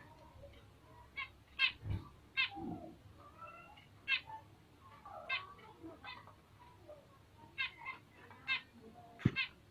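Bengalese finches giving short, sharp chirping calls, about a dozen at uneven intervals. There are a couple of soft low knocks, at about two seconds and near the end.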